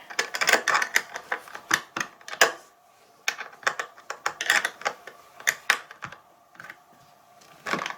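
Irregular light clicks and clinks of small metal hardware being handled as a flange nut is put onto a 1/4-20 bolt. The clicks come in bunches with short pauses between them.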